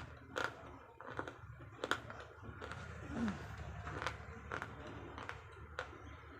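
Slate pencils being bitten and chewed close to the microphone, giving a series of sharp, dry crunches at irregular intervals, about one a second.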